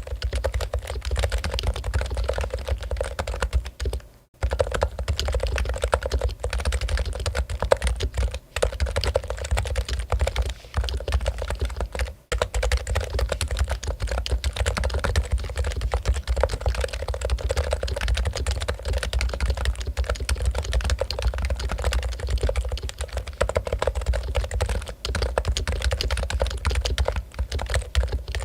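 Topre Realforce keyboard being typed on fast and continuously, its Topre rubber-dome switches giving a dense stream of keystrokes, with brief pauses about four seconds in and again around twelve seconds.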